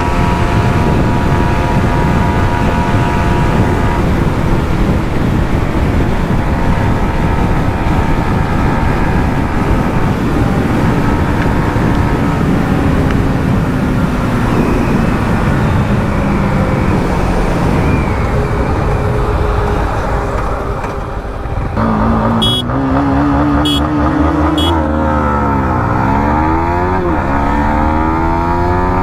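Yamaha 155 cc single-cylinder motorcycle engine running hard at high revs under heavy wind rush, as at top speed. The pitch sags slowly through the middle. After a brief dip, a clearer engine note comes through, wavering in pitch, with a few short clicks.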